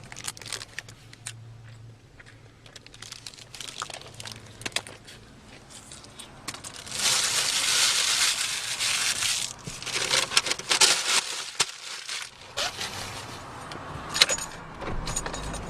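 Paper food wrapper rustling and crinkling as a sandwich is handled and opened, with scattered small clicks and a louder stretch of crinkling about seven seconds in.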